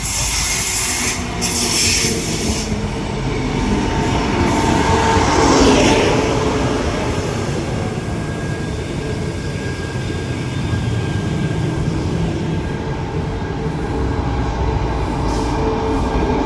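Electric suburban passenger train running through the station: a steady rail rumble with thin steady high tones above it, loudest about five to six seconds in.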